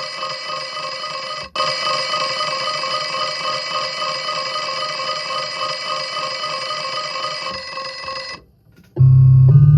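An electronic alarm-like ringing tone, like a phone bell, held steadily with a fast flutter. It breaks off for an instant about a second and a half in and stops near the end, and a loud, low electronic note starts just after.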